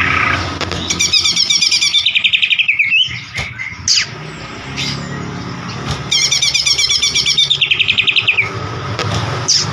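White-rumped shama (murai batu) singing: two long runs of rapid repeated notes, about a second in and again about six seconds in, with short sweeping whistles between them, over a steady low background hum.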